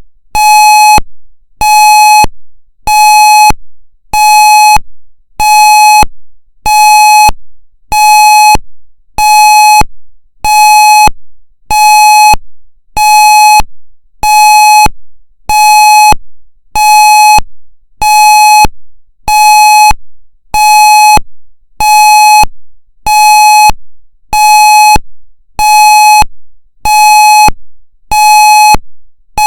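Federal MCP alarm signal sounding on its pulse setting: a loud electronic tone beeping on and off in an even rhythm, roughly once a second, each beep starting with a click.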